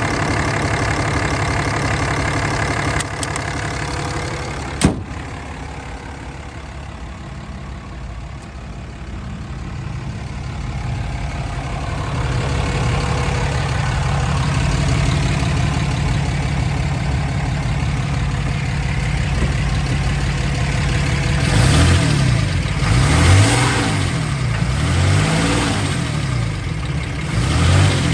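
6.7-litre Cummins turbo-diesel idling steadily, with one sharp knock about five seconds in. Near the end it is revved up and let back down several times in quick succession.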